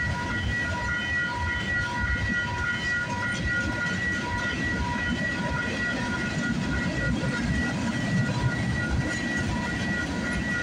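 Freight train of tank cars rolling steadily past at a level crossing, with the wheels rumbling and clacking over the rail joints. Over it, the crossing's warning bell rings at an even pace.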